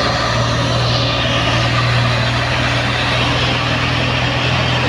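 Truck engine running steadily with a loud, even low drone.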